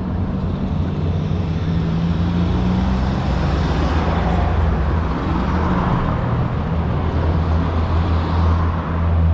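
Street traffic: motor vehicle engines running close by, a steady low engine hum under road noise.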